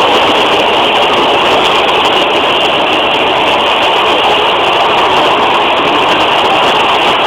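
Several motorcycle engines running together, a loud, steady din with no single engine standing out.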